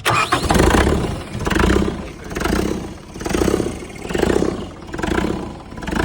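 Kubota diesel engine starting and running, its sound swelling and fading about once a second. It fires up now that the power wire to its injection pump is connected again.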